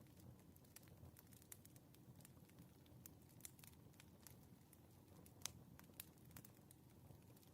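Wood fire crackling faintly: irregular sharp pops and ticks over a low steady rumble, with a louder pop about five and a half seconds in.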